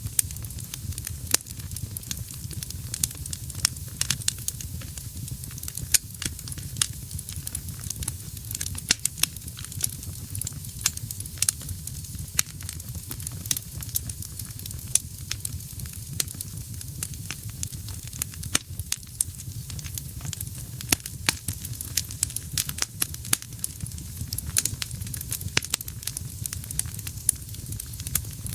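Wood fire burning in a fireplace: irregular sharp crackles and pops over a steady low rumble of flame and a soft hiss.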